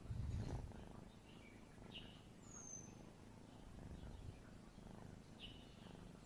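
Faint bird chirps, a short chirp followed by a high falling whistle, repeating about every three and a half seconds over low background noise. A brief dull thump of handling sounds at the very start.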